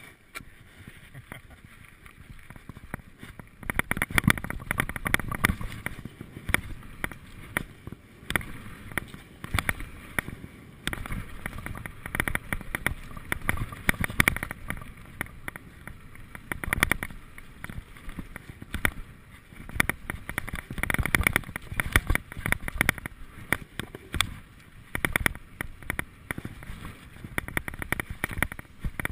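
Mountain bike clattering over a rough dirt trail: dense rattling from the chain and frame over bumps, with tyre rumble and wind on the microphone. It grows louder about four seconds in.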